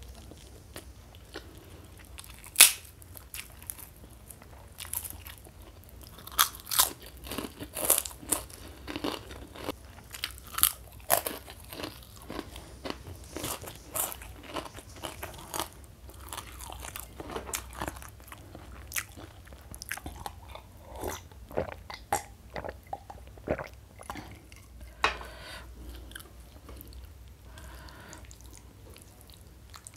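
Close-miked crunching and chewing of a pink kerupuk (Indonesian cracker): one sharp loud bite a few seconds in, then a dense run of crisp crunches that thins out toward the end.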